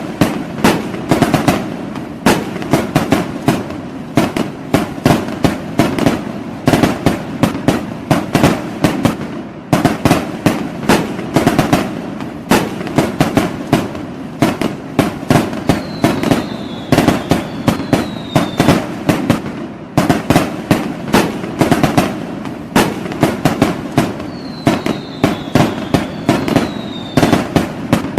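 Fireworks going off in a dense, continuous barrage of rapid bangs and crackling. Two pairs of short falling whistles sound partway through and again near the end.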